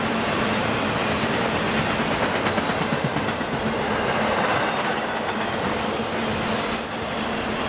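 Freight train rolling past on the CSX line, a steady noise of steel wheels running on the rails, with a few sharp clicks near the end.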